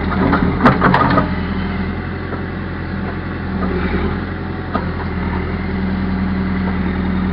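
Backhoe engine running steadily, with a few sharp knocks about a second in.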